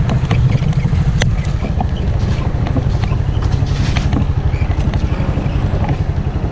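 Small motorbike engine running with a fast, even pulse, mixed with wind noise.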